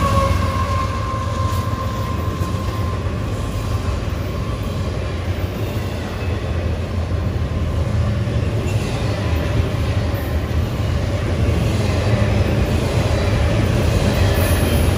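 CSX diesel freight train rolling past: the tail of a horn blast fades in the first few seconds, under a steady low rumble of locomotives and cars on the rails.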